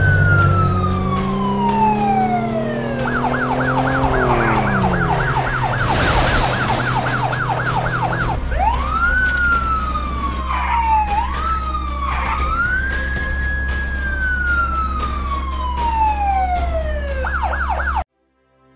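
Police car siren on a chase, switching between a slow rising-and-falling wail and a fast yelp of about five cycles a second, over a low steady engine hum. A brief burst of noise comes about six seconds in. The sound cuts off suddenly near the end.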